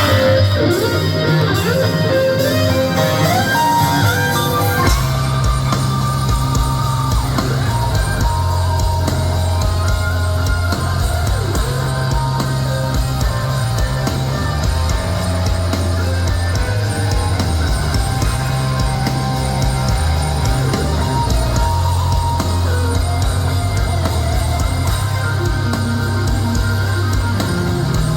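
A metal band playing live: distorted electric guitars over bass and drum kit, loud and steady. The low end of bass and drums fills in fully about five seconds in.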